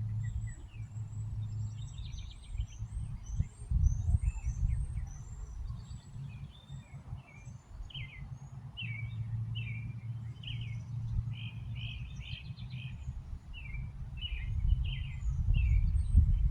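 Birds chirping in quick, short notes, thickest in the second half, over a steady low rumble.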